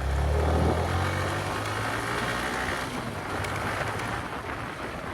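Bajaj Pulsar NS200 motorcycle on the move: a low engine drone under steady wind and road noise.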